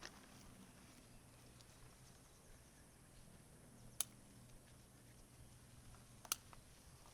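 Near silence with faint background ambience, broken by two sharp clicks about four seconds and six seconds in.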